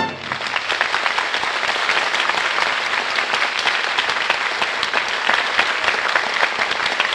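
Studio audience applauding steadily, starting as the orchestra's closing chord cuts off.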